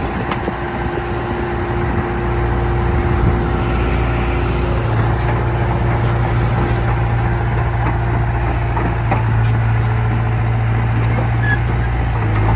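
Heavy diesel engine of earthmoving machinery running steadily, a little louder from about two seconds in.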